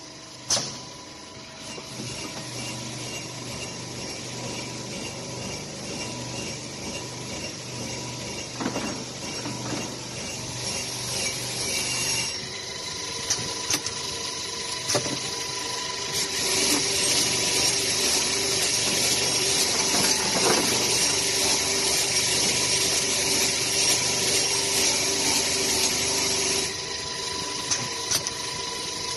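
Automatic polishing machine for copper air-conditioning filters running: a steady mechanical hum with a faint tone and scattered clicks from its mechanism. From about halfway through, a louder hiss sets in and stops shortly before the end.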